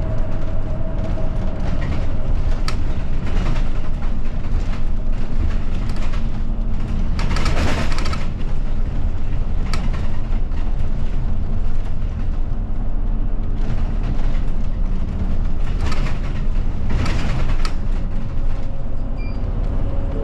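Route bus driving along, heard from inside the cabin: steady engine and road noise, with a few sharp knocks and rattles and a brief swell of noise about seven and a half seconds in.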